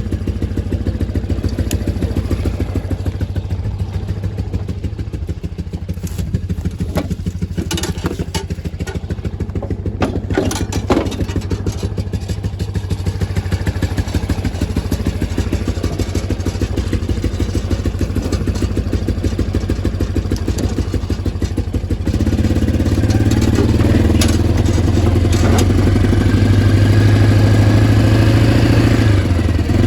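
Small single-cylinder lawnmower engine running steadily with a rapid putter, with a few sharp knocks about ten seconds in. About 22 seconds in it gets louder and fuller, as if throttled up.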